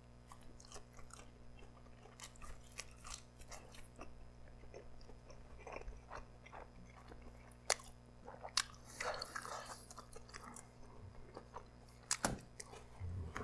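Close-miked chewing of a bite of stuffed pizza: soft, wet mouth sounds with many small scattered clicks and a few sharper smacks. The crust chews soft, with no real crunch.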